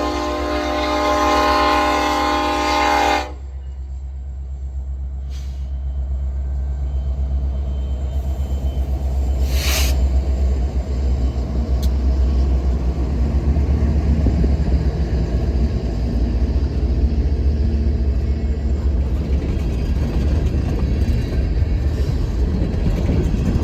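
Diesel freight locomotive's air horn sounding and cutting off sharply about three seconds in. The steady low rumble of the train rolling past follows and builds.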